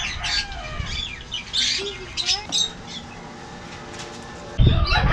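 Small caged birds chirping and squawking in quick, short calls, busiest in the first few seconds. A sudden louder noise starts near the end.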